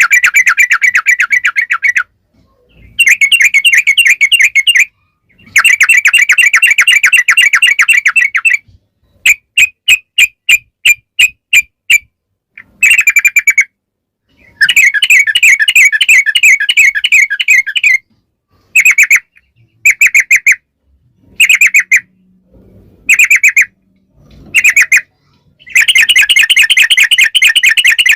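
Yellow-vented bulbul (trucukan) singing in long phrases of fast, trilled chattering, each phrase lasting up to about three seconds and separated by short pauses. About nine seconds in, it gives a run of short separate notes, and near the middle of the clip it switches to shorter, clipped bursts.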